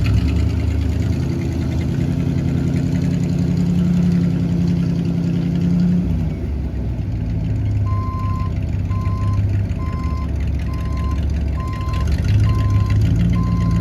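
1998 GMC C5500 dump truck's engine running steadily, its note shifting about six seconds in; from about eight seconds in, its backup alarm beeps about once a second, a sign the truck is in reverse.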